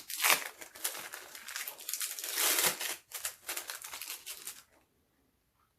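Plastic wrapping crinkling and rustling as it is handled, stopping near the end.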